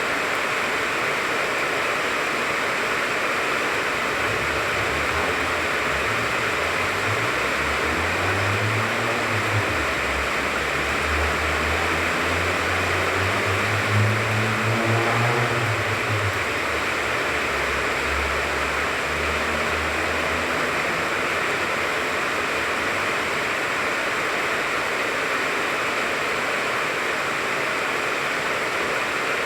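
Steady rain pattering on the leaves of a tangerine tree, a constant hiss. From about four seconds in, the low engine hum of a passing vehicle swells, is loudest near the middle, and fades out after about twenty seconds.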